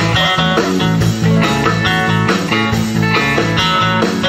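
A live band plays the instrumental intro of a country song: guitar leads over a steady bass line.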